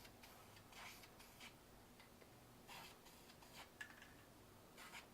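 Faint, short hissing bursts from an aerosol spray paint can, about five of them, as a car interior panel gets another coat.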